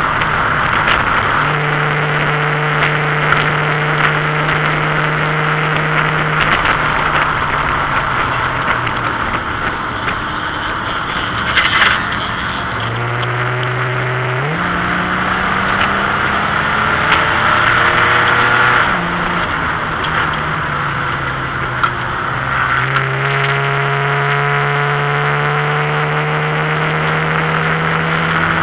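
BMW 528e's straight-six engine running under load inside the stripped race-car cabin, its pitch holding steady for stretches, dipping, then climbing again as the car speeds up, over steady wind and road noise. A short knock about twelve seconds in.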